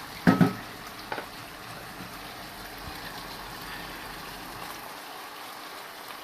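A pot of braised chicken gravy boiling with a steady bubbling hiss. A loud clink of a utensil against the pot comes about a third of a second in, and a lighter one about a second in.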